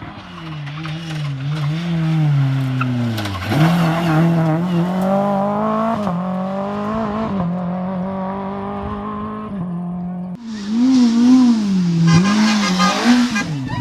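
Small Fiat rally car's engine at full throttle, revs climbing and dropping sharply at each gear change as it comes closer and gets louder. About ten seconds in the sound jumps to a louder engine revving up and down hard over a hiss of tyre noise.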